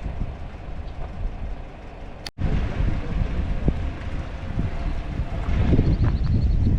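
Steady low rumble of a vehicle and wind noise, with no voices. It drops out abruptly about two seconds in and comes back louder.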